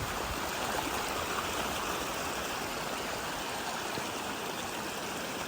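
Heavy storm runoff water flowing, a steady, even rush of water.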